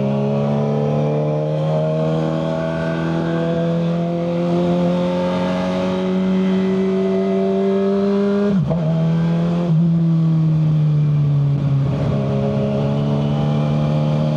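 Kawasaki ZX-6R 636's inline-four engine through a Yoshimura full exhaust, heard from the rider's seat. The engine note climbs slowly under light throttle, dips sharply twice a little past the middle, then settles and eases gently down.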